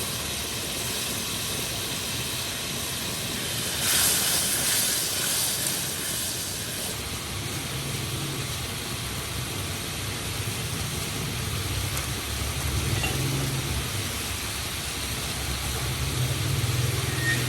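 Steady hissing over a low rumble, like a pan on a gas burner, with a louder, brighter hiss for about two seconds around four seconds in.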